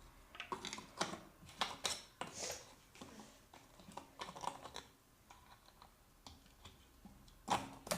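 Light, irregular clicks and taps of small plastic items being handled while making slime, with a louder cluster of clicks near the end.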